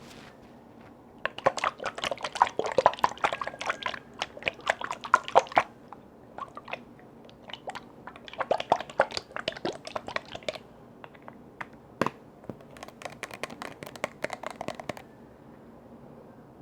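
Rapid crackling clicks and taps on lids and containers, in three dense bursts with a single sharp tap between the second and third.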